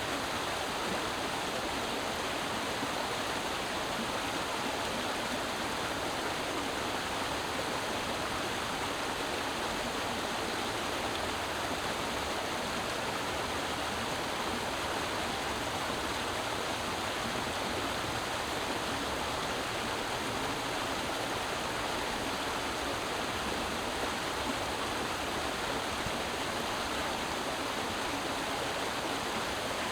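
A creek flowing over rocks: steady, even rushing and babbling water.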